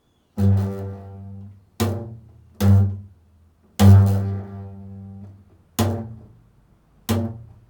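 Low bass notes plucked one at a time, six in all, each struck sharply and left to ring and fade, in a slow improvised line.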